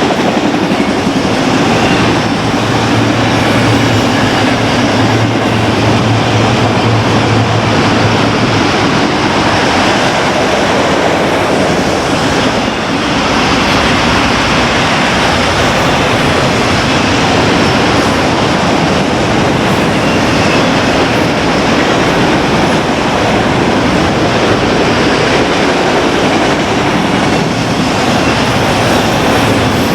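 BNSF freight train's cars rolling past at track speed, a steady loud rumble of wheels on rail. A low hum stands out during the first several seconds, then fades.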